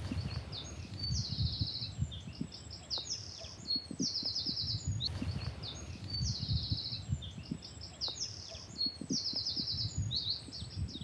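Songbird singing short phrases that each end in a high, fast trill, one every second or two, over an irregular low rumble.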